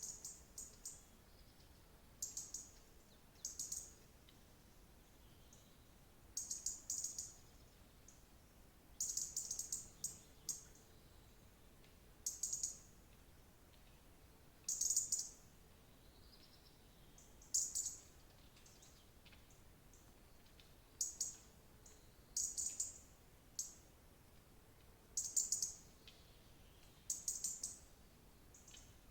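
A small bird calling in short, high-pitched chirpy bursts, each a quick rattle of notes about half a second long, repeated every one to three seconds.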